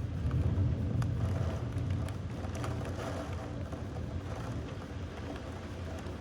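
Low rumble of thunder rolling on and slowly dying away, with a few faint ticks over it.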